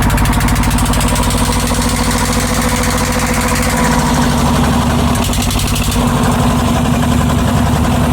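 Boat engine running close by, a steady chugging with fast even firing pulses; its pitch shifts slightly about four seconds in.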